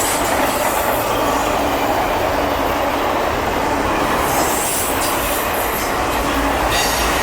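CSX auto rack freight train passing at speed: a steady rush and rumble of the cars' wheels on the rails, with brief high wheel squeals about four and a half seconds in and again near the end.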